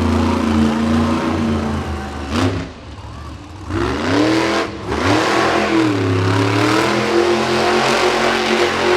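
Monster truck engine revving hard under throttle. About two and a half seconds in it backs off briefly, then revs up again, wavers, and holds at high revs near the end.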